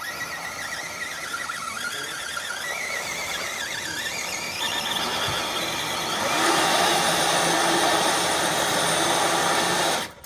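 Redcat Gen8 RC crawler truck's electric motor and geared drivetrain whining under load as it drags a weighted sled, with a wavering high squeal that gets louder about six seconds in. The sound drops out for a moment just before the end.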